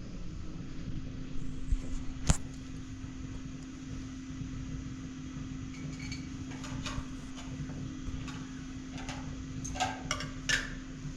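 Steady low mechanical hum with a sharp knock about two seconds in and scattered clicks and knocks in the second half, the loudest near the end.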